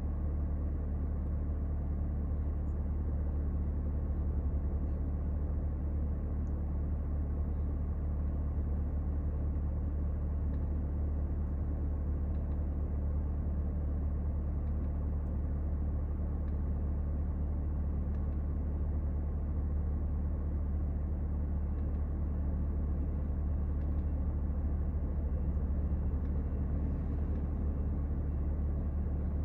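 Steady low vehicle rumble, even throughout, with no revving or passing swells.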